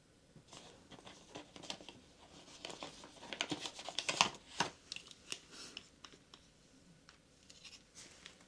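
Close-up handling sounds: an irregular run of small clicks, rustles and crinkles, busiest and loudest around the middle, the loudest single click about four seconds in.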